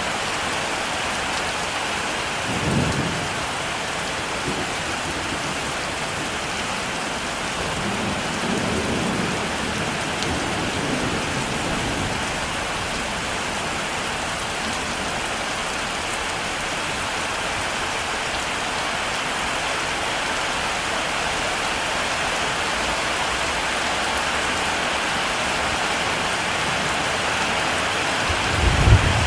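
Heavy rain falling steadily, with low thunder rumbling faintly about three seconds in and again around ten seconds in, and a louder thunder rumble starting near the end.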